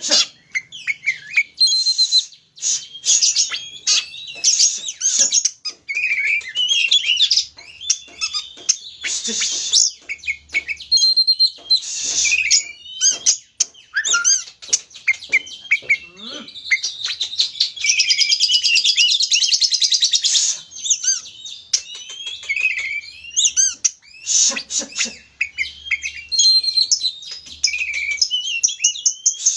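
Oriental magpie-robin (kacer) singing loudly and almost without pause: a varied song of whistles, chirps and sharp notes, with a long fast trill around the middle. It is the excited, aggressive full song ('gacor') played as a lure to provoke other magpie-robins.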